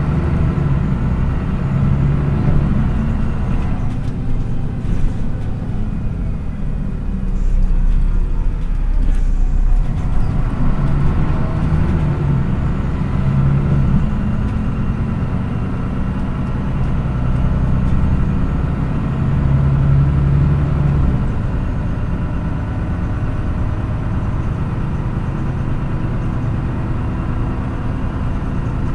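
MAN NÜ 313 bus's diesel engine running under way, heard from inside the bus with road noise. The engine note falls and rises a few times as the bus slows and pulls away again.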